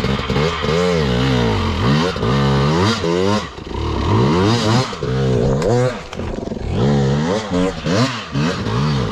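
Dirt bike engine revved in repeated short bursts, its pitch climbing and falling each time, as the rider tries to power the bike up a log on a hard enduro section.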